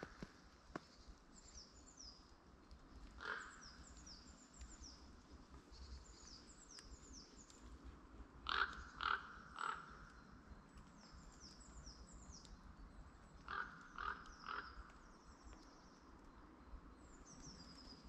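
Birds calling in a quiet forest: a small bird repeats short, high, falling notes in runs, and a louder, lower call comes once and then twice in quick groups of three.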